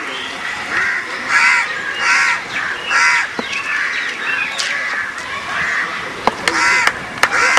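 Harsh cawing bird calls, several in a row, with a few sharp clicks in between.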